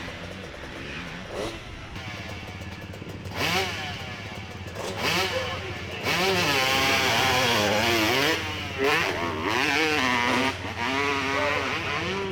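Motorcycle engine revving hard, its pitch rising and falling over and over as the throttle opens and closes, louder through the middle.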